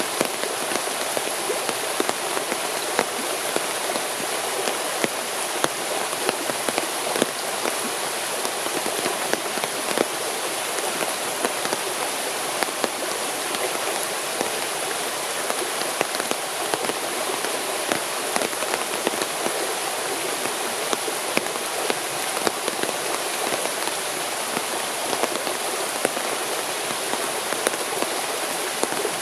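Steady rain falling, a constant hiss scattered with many sharp little drop hits.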